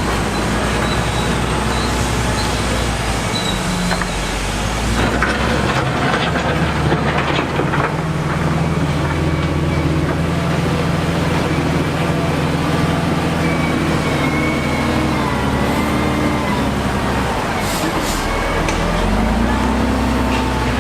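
Diesel engine of heavy construction machinery running under load, its pitch shifting up and down, with a cluster of clattering knocks several seconds in.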